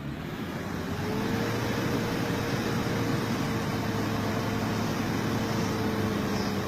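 4x4 pickup truck engine revving up over the first second or so, then held at steady high revs under load in deep mud.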